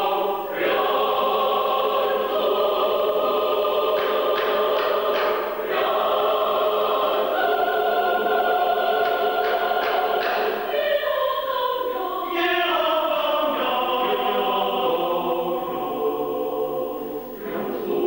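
Choir singing a choral piece: sustained chords with the voice parts shifting pitch, and a few short, crisp consonant sounds among the held notes.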